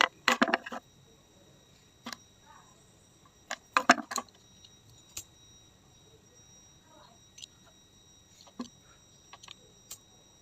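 Handling clatter from taking apart a hair dryer: sharp clicks and knocks of its parts and tools, a quick cluster at the start and another about four seconds in, then scattered light ticks.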